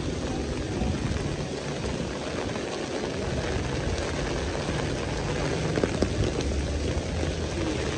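Heavy rain falling and splashing on a wet street, with a steady low rumble underneath and a couple of sharp clicks about six seconds in.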